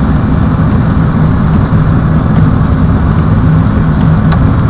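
Car engine and cabin noise heard from inside the car, a steady low rumble with a small click near the end.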